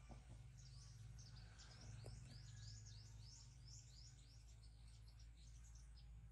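Faint chirping of small birds: a quick, dense run of short high chirps that dies away near the end, over a steady low hum.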